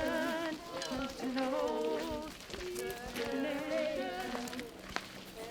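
Voices singing long, wavering notes with no clear words. A single sharp click sounds about five seconds in.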